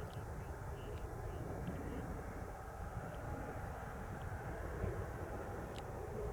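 Gulfstream G500 business jet's engines heard far off on approach: a faint, steady low rumble. A short click comes near the end.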